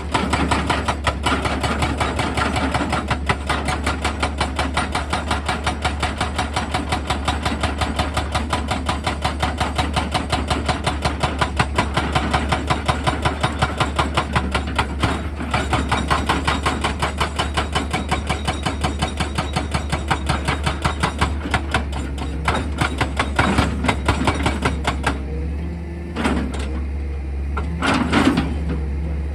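Excavator's drilling attachment hammering rapidly and steadily at rock over the machine's steady engine hum. The hammering stops about 25 seconds in, leaving the engine running with a couple of heavy knocks.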